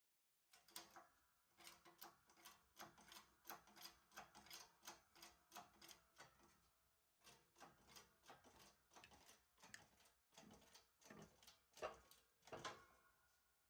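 Repeated metallic clicks and clanks, about two a second with a short pause around seven seconds in, from the tool being worked to drive the hub out of a completely seized wheel bearing.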